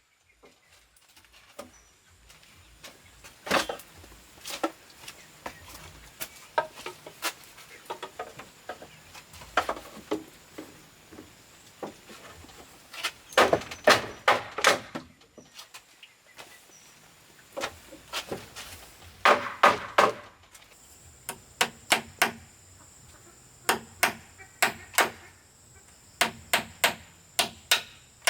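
Hand tool striking wood or bamboo, as in hammering or chopping: scattered blows and short bursts of quick strokes, settling in the second half into a steady run of about two to three strokes a second. A faint steady high tone runs underneath in the later part.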